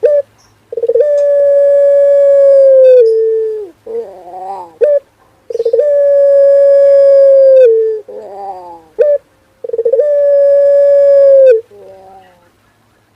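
Male puter pelung (a ringneck/barbary-type turtle dove) cooing. It gives three long, steady coos of about two seconds each, each dropping slightly in pitch at the end, with short bursts of quick rising notes between them.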